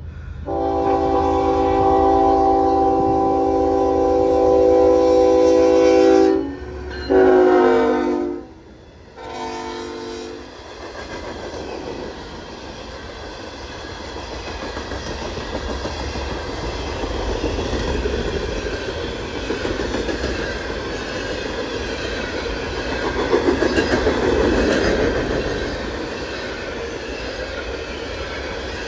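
Norfolk Southern locomotive horn sounding a chord of several notes: one long blast of about six seconds, then two shorter ones. The train then passes close by, with a steady rumble and wheel clatter that is loudest about three-quarters of the way through.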